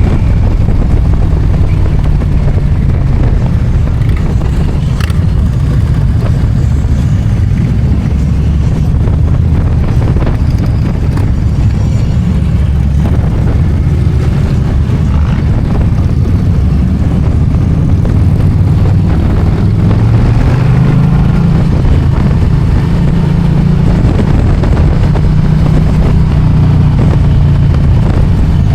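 Motorcycle engine running under way with wind on the microphone; its pitch climbs about twenty seconds in, then holds.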